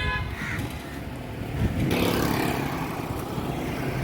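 A motor vehicle passing close by on a road: its engine and tyre noise grow louder about two seconds in, with a steady low engine hum.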